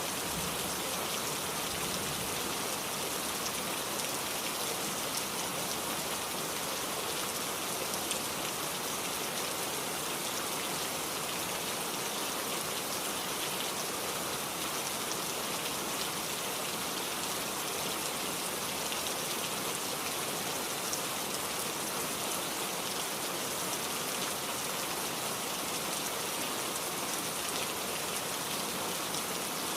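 Heavy rain falling steadily, a dense even hiss of drops with fine pattering on hard surfaces.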